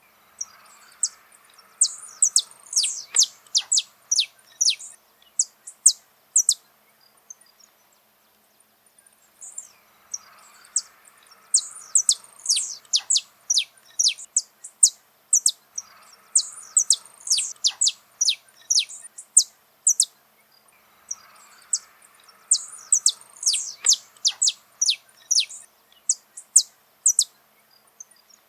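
Saffron finch (canário-da-terra) singing: four bursts of quick high chirping notes, each a few seconds long, with short pauses between.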